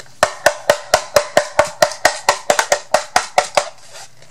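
Rapid hollow tapping, about five sharp knocks a second for some three and a half seconds, as glitter is tapped out onto a craft project.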